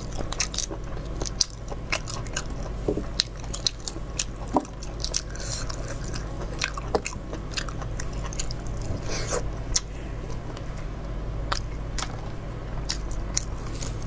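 Close-up eating of mala-spiced food: biting and chewing, with sharp crunches and clicks every second or so over a steady low hum.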